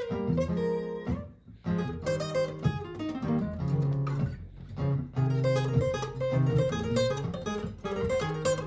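Martin GPCPA4 acoustic guitar playing an improvised line of plucked notes and chords over a looped guitar part. The playing drops away briefly about a second and a half in, then carries on.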